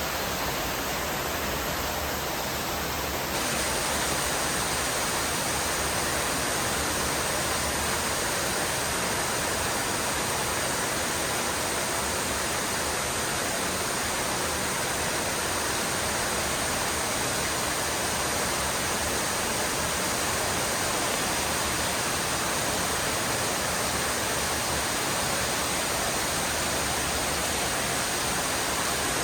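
Steady heavy rain falling, an even hiss with no breaks. It grows a little louder and brighter about three seconds in.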